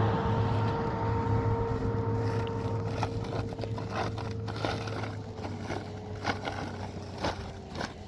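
A motor vehicle's engine running with a steady hum that slowly fades, as if driving away. Scattered light clicks and scrapes come in over the last few seconds.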